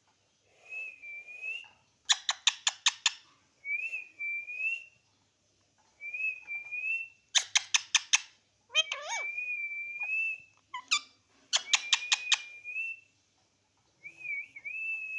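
Pet parrot calling: short wavering whistles, each about a second long, alternate with quick runs of sharp, rapid screeches.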